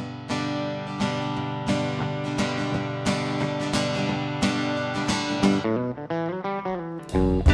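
Live guitar intro to a country-rock song: strummed chords ring out about once a second, then give way to a quick run of single notes. Near the end the full band comes in, with bass and drums filling out the low end.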